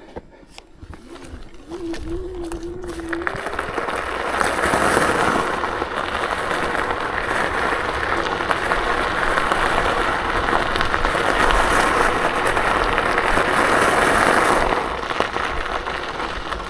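KuKirin G2 electric scooter riding along: a steady rush of tyre rolling noise and wind on the camera, swelling about four seconds in and easing near the end as it slows.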